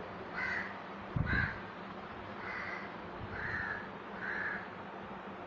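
Short bird calls repeating about once a second, five in all, over a steady low hum.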